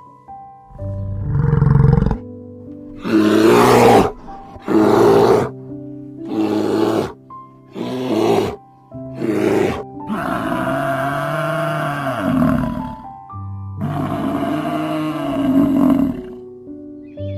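Soft piano music under animal calls: an Asiatic black bear gives a run of short, loud roaring grunts, about one a second, then a water buffalo gives two long drawn-out calls that rise and fall in pitch, each lasting two to three seconds.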